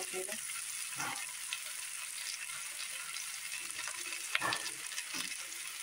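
Chowmein noodles and sliced vegetables sizzling in a heavy wok (kadai), a steady frying hiss with a few faint knocks about a second in and near the end.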